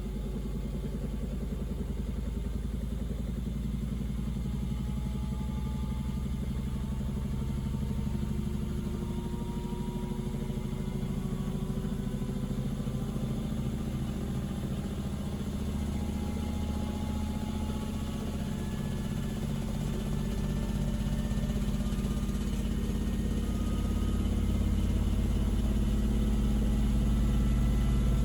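Panasonic NA-VX9300L drum washing machine running its service-mode check with freshly replaced dampers. The drum turns with a steady low hum that grows gradually louder as it speeds up, with a faint gliding motor whine above it.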